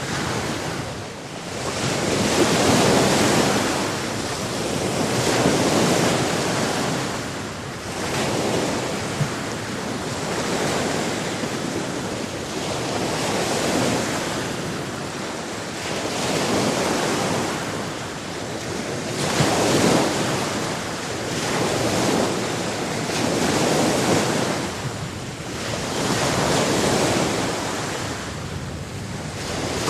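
Sea waves surging and washing in, a steady rush of surf that swells and falls back about every three seconds.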